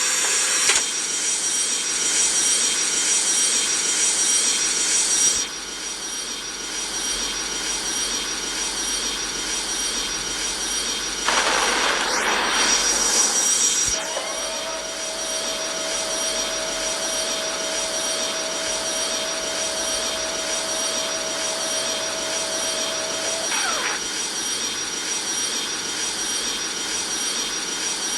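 Airbus A330 jet engines running steadily as heard aboard the aircraft, with a high steady whine over the engine noise. The noise swells for a few seconds about 11 s in, then a steady hum sits under it for about ten seconds.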